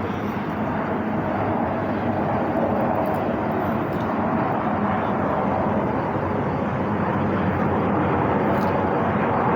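Airplane engine noise at an air show: a steady drone that grows gradually louder as the aircraft approaches.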